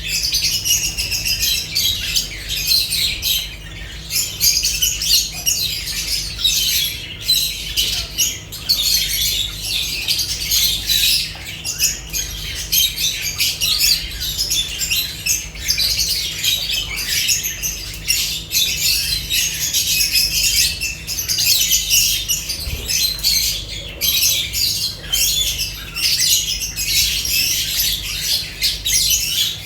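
Lovebirds chattering and squawking, many shrill calls overlapping without a pause.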